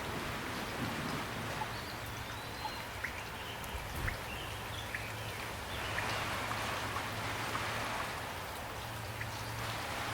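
Steady light rain, with individual drops ticking here and there over the even hiss of the rainfall.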